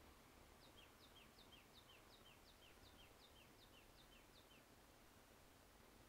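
A bird calling faintly: a quick run of about eleven paired notes, each pair a higher note followed by a lower one, every note sliding briefly downward, at roughly three pairs a second, over a steady background hiss.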